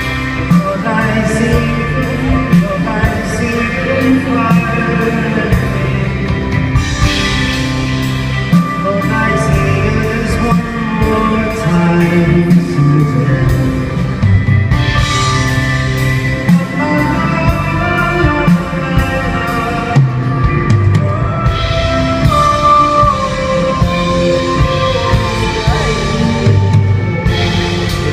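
Live band playing a soft-rock song's instrumental outro, with a steady drum beat under guitar and keyboard lines and some wordless singing.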